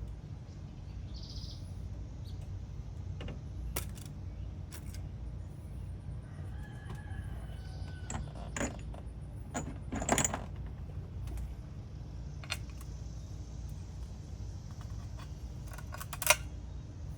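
Scattered metal clinks and clanks of tools and bolts being handled while a water pump is fitted to the engine, the loudest about ten seconds in and again near the end, over a steady low rumble.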